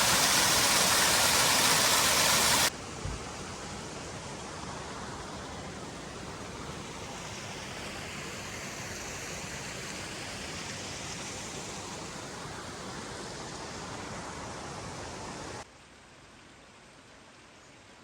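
Steady hiss of heavy rain, cut twice: loud for the first few seconds, then markedly quieter, then quieter again near the end.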